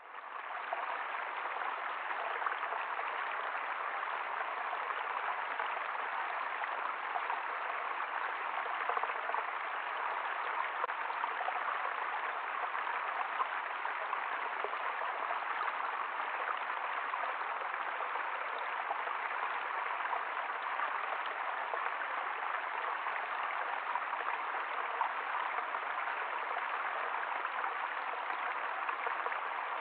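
Steady rush of running water, as of a stream, fading in over the first second and then holding even throughout.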